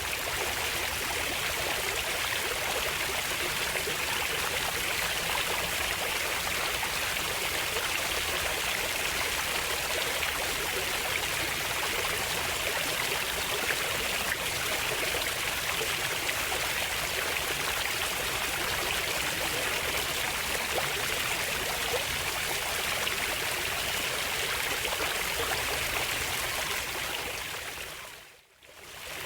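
Running water flowing steadily, a continuous rushing sound. Near the end it fades out briefly and comes back in.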